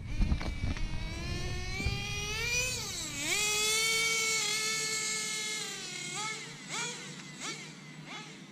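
A nitro RC car's small two-stroke glow engine at full throttle on a speed run: a high, buzzing note that climbs, dips briefly about three seconds in, then holds high for a few seconds. Near the end it falls away in a few short throttle blips as the car slows.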